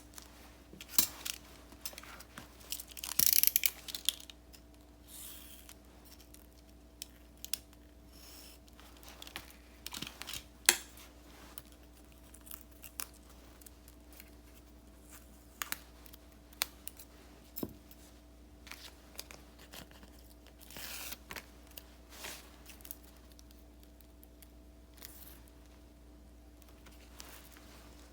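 Paper and sticker handling at a desk: scattered rustles, crinkles and small taps and clicks, with a louder burst of rustling about three seconds in. A faint steady hum runs underneath.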